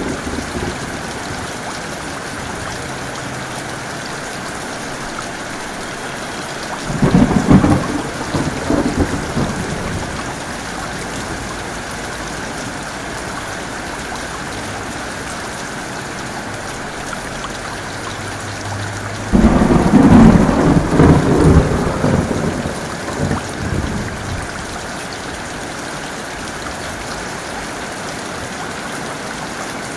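Heavy rain falling steadily, with two claps of thunder: one about a quarter of the way in and a louder, longer one about two-thirds of the way in, each rolling off over a few seconds.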